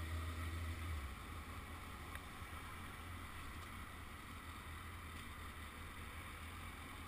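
Faint, muffled low hum of a motorcycle engine idling. The hum drops away about a second in and leaves a faint steady hiss.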